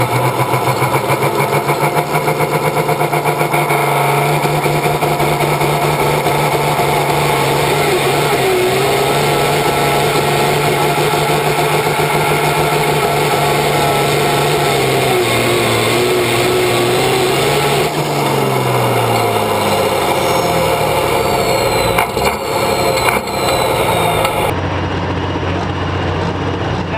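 Massey Ferguson 1130 tractor's diesel engine pulling under load at high, steady revs, then the revs fall away about two-thirds of the way through. Near the end the sound changes suddenly to a lower, steady engine running.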